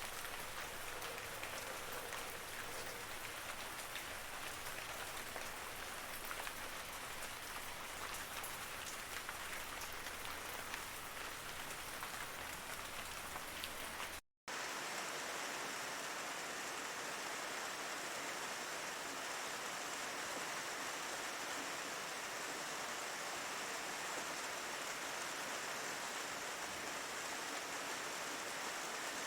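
Steady rain falling, with individual drops ticking. About halfway it cuts out for a split second, then continues as a smoother, even hiss.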